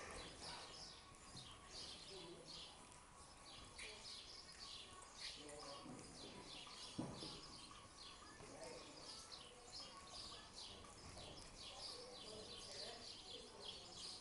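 Faint chirping of small birds, a few short high chirps a second, over a low background hiss, with a single knock about seven seconds in.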